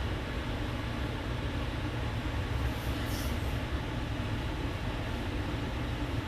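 Steady low background rumble, with a brief soft hiss about three seconds in.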